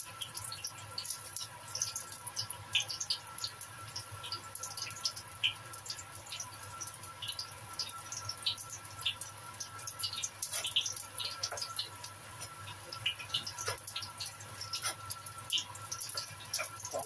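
Sliced shallots and garlic sizzling in hot oil in a wok: a steady hiss with frequent small crackling pops.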